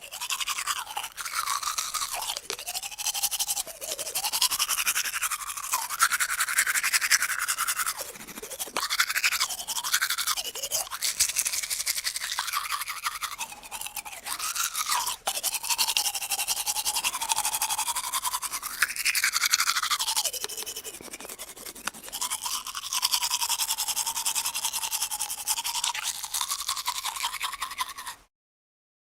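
Harsh buzzing electronic sound effect with tones that sweep up and down, cutting off abruptly near the end.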